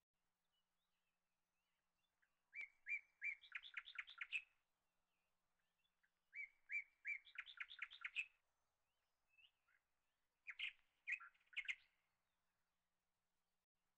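A small bird chirping and singing: two phrases of quick, repeated chirps a couple of seconds each, then a shorter burst of chirps near the end.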